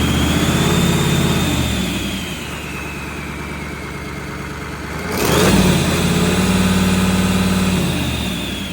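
Mercedes OM442 V8 diesel engine being revved: it runs at raised revs, drops back to idle about two seconds in, is revved up sharply again about five seconds in, held, and eases back near the end. A high whine rises and falls with the revs.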